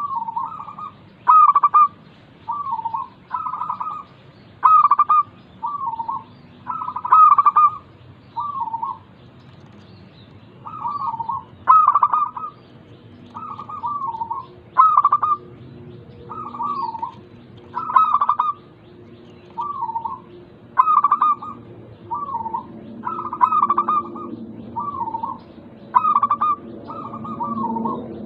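Local zebra dove (perkutut) cooing: a steady run of short, rippling, stuttering phrases, repeated about once a second with a few brief pauses.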